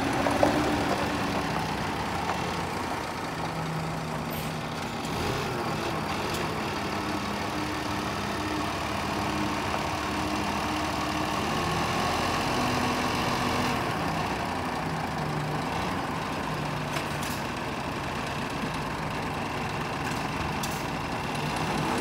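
Scania R410 truck's six-cylinder diesel engine running steadily at idle.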